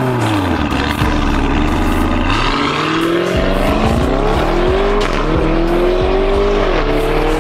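Lamborghini Urus's twin-turbo V8 with Fi Race downpipes and valvetronic exhaust: the engine note sinks for about two seconds, then the car accelerates hard, the pitch climbing through a couple of upshifts with a brief dip at each.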